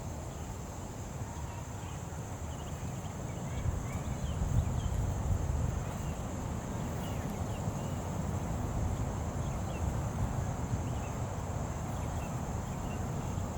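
Outdoor summer ambience: a steady high-pitched insect drone over a low rumble, with faint scattered chirps.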